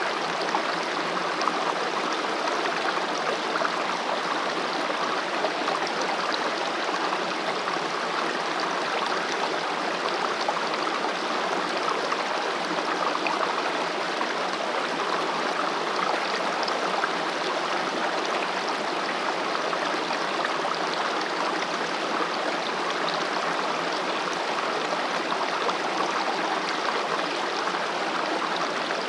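Mountain valley stream flowing over rocks: a steady, even rush of water with fine trickling.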